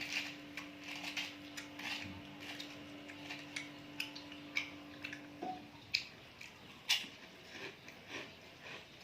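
Close-up chewing of sea grapes: irregular small clicks and crackles, a few sharper ones about four, six and seven seconds in.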